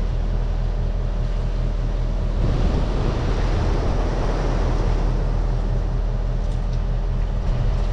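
A machine's engine idling steadily, with a rushing noise like wind on the microphone swelling from about two and a half seconds in.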